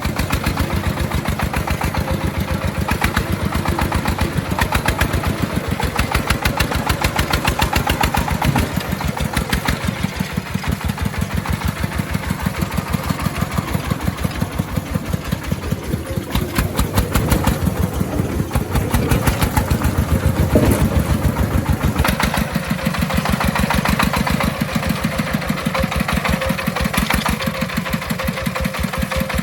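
Engine of an agricultural timber-hauling vehicle running steadily with a regular, rapid chugging beat, swelling a little in level now and then.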